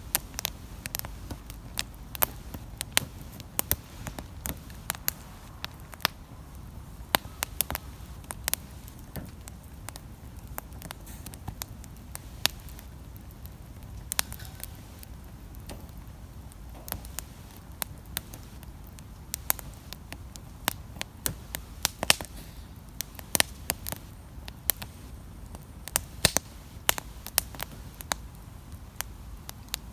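Wood campfire crackling, with frequent irregular sharp snaps and pops over a steady low rumble.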